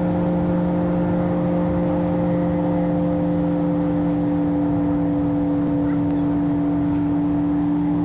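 Mazda B-series pickup's engine and road noise heard from inside the cab, a steady drone at constant pitch as the truck cruises at an even speed.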